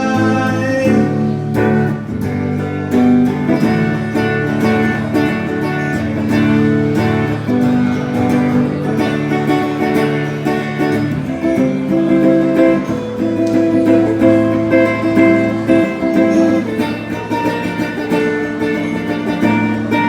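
Live band playing an instrumental break led by guitar, with strummed acoustic guitar under it and no singing.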